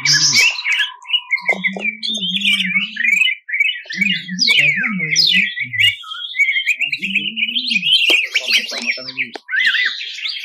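Cucak ijo (green leafbird) singing a fast, continuous stream of high chirps and trills in harsh bursts. Short lower-pitched notes sound underneath it about a second and a half, four and seven seconds in.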